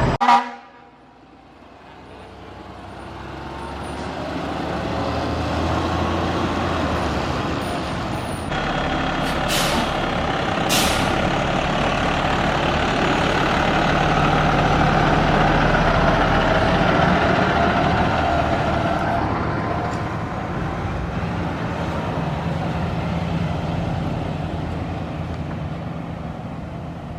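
Diesel fire truck's engine growing louder as it approaches, loudest around the middle, then fading as it moves off. Two short hisses, typical of air brakes, sound about ten seconds in.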